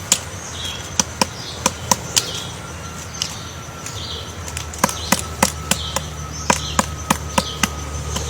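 Short bird chirps mixed with a run of sharp, irregular clicks or taps, about two a second.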